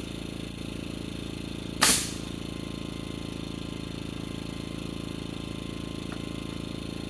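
A pneumatic framing nailer fires one nail about two seconds in: a sharp crack with a quick hiss of air. A steady motor hum runs underneath.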